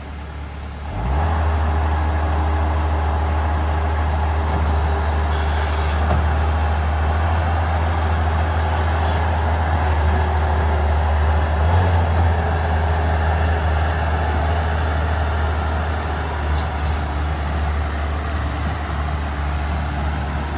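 Bobcat T190 compact track loader's diesel engine revving up about a second in, then running steadily at high throttle while the machine works.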